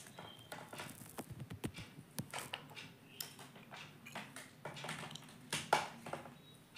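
Indian ringneck parrot playing at a mirror: scattered quick clicks and taps with a few short, soft sounds in between. The loudest is a sharp tap about three-quarters of the way through.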